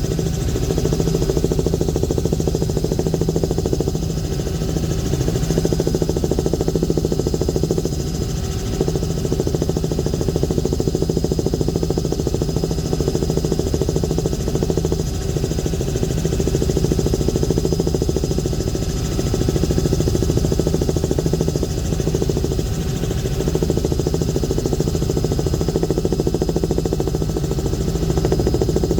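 Aircraft engine droning steadily and evenly, heard from inside the cabin, with a faint steady high whine above it.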